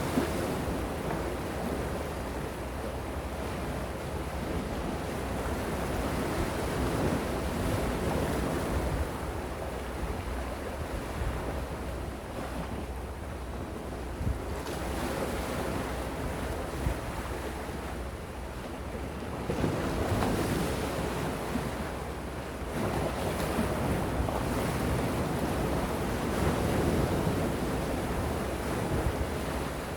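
Gentle sea waves washing ashore in slow swells that rise and fall every several seconds, with wind rumbling on the microphone.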